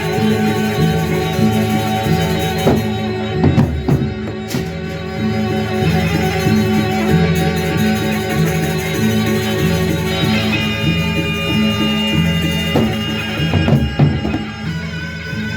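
Instrumental music from a live traditional-style band playing an opening variation: sustained melodic lines over a steady repeating drum beat, with short runs of sharp drum strikes about three to four seconds in and again near the end.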